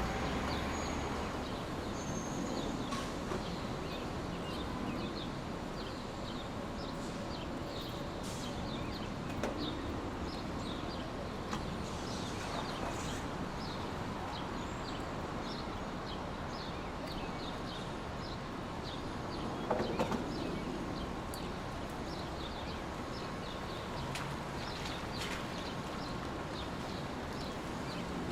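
Steady noise-machine hiss with many quick, high bird-like chirps scattered over it, several a second, and a brief louder rustle about twenty seconds in.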